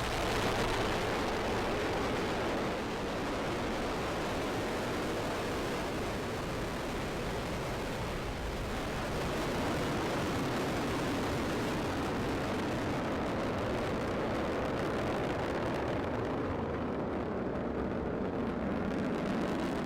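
Steady rumbling noise of an Atlas V 401 rocket's RD-180 first-stage engine climbing away in the first seconds after liftoff. The higher hiss thins out near the end.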